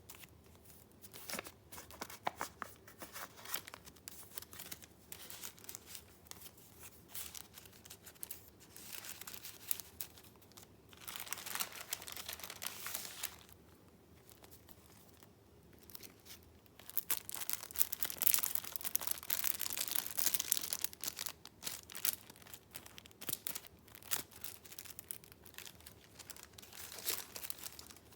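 Paper being handled: sheets and pages of a junk journal rustling and crinkling in irregular bursts, with two louder, busier spells, one about eleven seconds in and a longer one a few seconds later.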